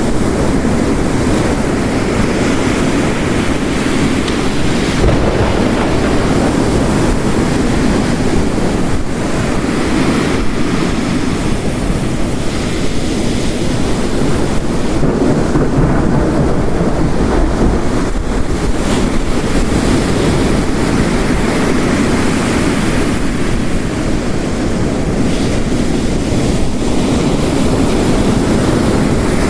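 Ocean waves breaking continuously on a shore, layered with the steady hiss of heavy rain, in one dense, unbroken wash of storm noise.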